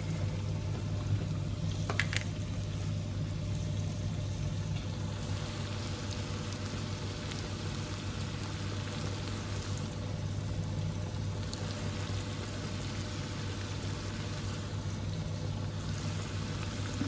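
Food frying steadily in a pan, a continuous sizzle with a low hum underneath and a single small click about two seconds in.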